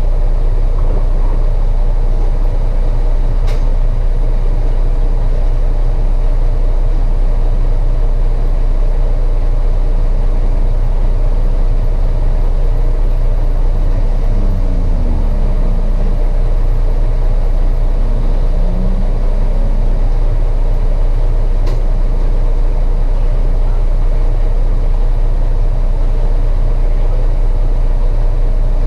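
Truck engine running steadily with a heavy, continuous low hum; a few short pitch glides come and go near the middle.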